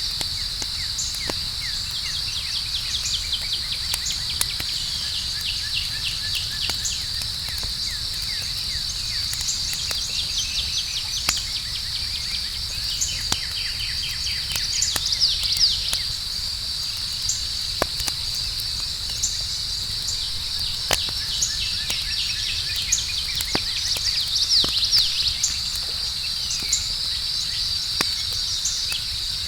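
Outdoor night ambience: a steady high-pitched chorus of crickets, with bursts of quick, falling bird chirps, over a campfire crackling with sharp scattered pops and a low rumble.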